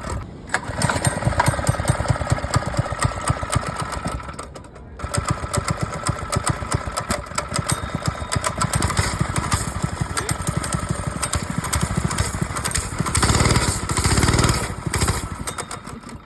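Minibike's small engine running with a fast, even firing beat. It dips briefly twice early on and runs louder for about two seconds near the end before falling away.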